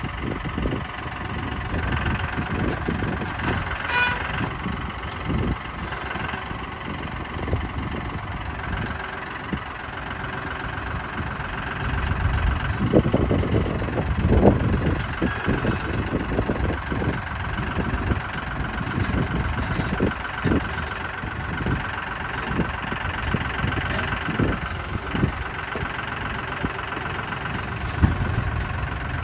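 An engine idling steadily, with scattered knocks and thumps over it, the heaviest about thirteen and fourteen and a half seconds in.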